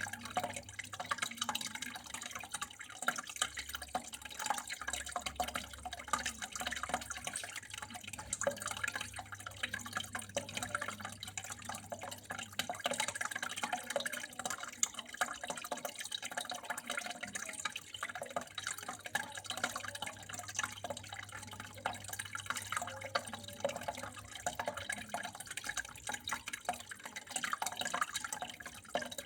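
Water flowing and trickling steadily, with a dense, irregular patter of drips and small splashes.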